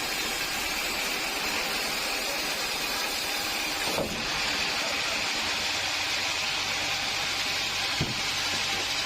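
Sawmill machinery running with a steady mechanical hum and hiss, with a short knock about four seconds in and another about eight seconds in.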